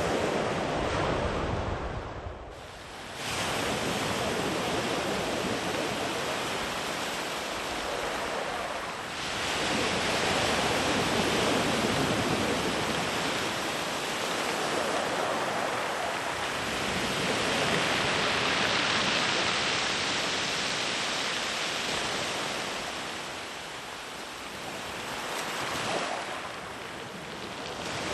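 Sea waves breaking and washing up a sandy beach, the surf swelling and ebbing in long surges.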